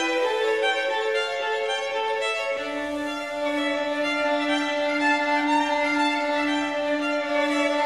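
Background music: a violin playing long held notes, moving to a lower note about two and a half seconds in.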